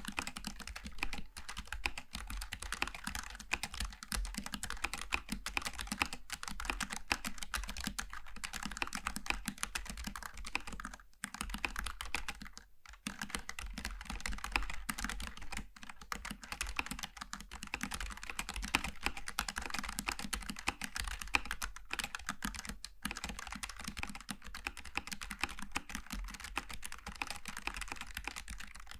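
Continuous fast typing on a Logitech G915 TKL keyboard with low-profile GL Tactile switches: a dense stream of key clicks, with two short breaks around the middle.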